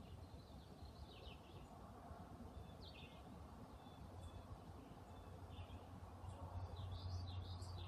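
Faint bird chirps, short and scattered, over a steady low hum that grows louder near the end.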